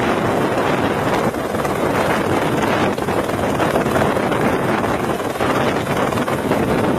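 Steady, loud rushing noise, like wind buffeting the microphone, with no distinct engine tone or impacts.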